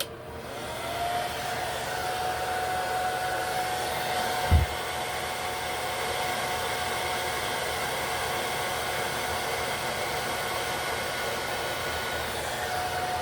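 Hand-held hair dryer on its low setting blowing steadily with a whine, drying the lace-wig adhesive. A brief, loud thump sounds about four and a half seconds in.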